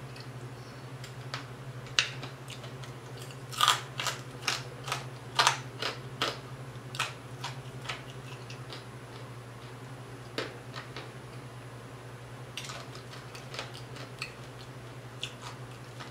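Close-up chewing of crispy fried whole tilapia: a quick run of crunches and mouth clicks in the first half that thins to occasional soft clicks, over a steady low hum.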